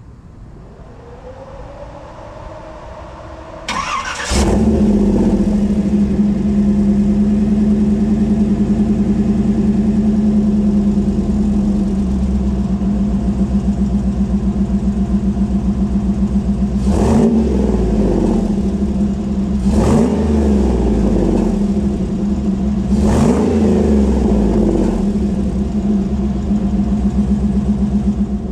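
LS V8 engine breathing through shorty headers and a Flowmaster 40 Series muffler: it is cranked and fires about four seconds in, then settles into a steady idle. Three quick throttle blips come near the end, each rising and dropping back to idle.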